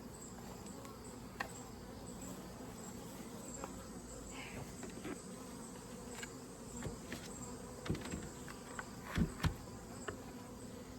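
Honeybees buzzing steadily from an open hive colony during a frame inspection, with several light knocks and taps, the loudest a few seconds before the end.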